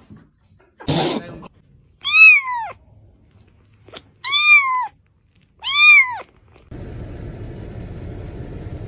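A cat meowing three times, each meow rising then falling in pitch, about a second and a half apart, after a short rough huff about a second in. A steady hiss starts near the end.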